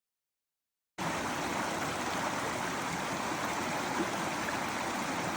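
Creek swollen with storm run-off, rushing fast in a steady roar of water that starts abruptly about a second in.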